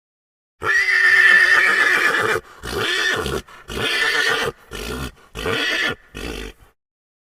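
Horse whinnying: one long, high call that breaks into a string of shorter pulses, trailing off.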